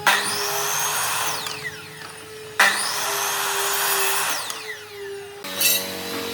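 A handheld power tool running in two bursts of about two and a half seconds each, working wood. Each burst starts suddenly, and the motor's pitch rises as it spins up and falls as it winds down.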